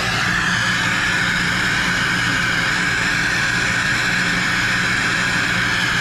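Handheld gas torch burning with a steady loud hiss while heating copper pipe fittings for soldering.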